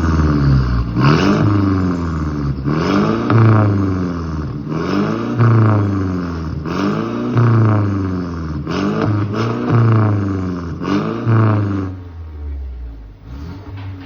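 Mercedes C200 with a full aftermarket exhaust and decat downpipe, revved in repeated quick blips, each rising and falling in pitch, about once a second. It drops back to a steady idle near the end.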